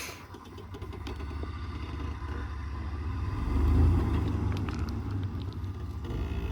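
Off-road truck engine running at low speed over rough ground, swelling louder a little under four seconds in, then easing back, with light scattered clicks.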